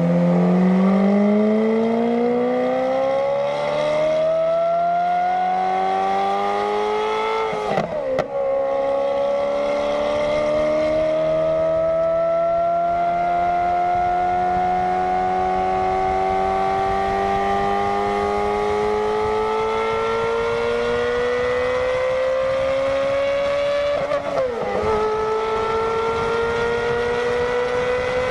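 Ferrari F430's 4.3-litre V8 through a Kreissieg valvetronic exhaust, howling as it pulls under acceleration, its note climbing steadily in pitch. Two quick gear changes, about eight seconds in and again near twenty-five seconds, each drop the pitch before it starts climbing again.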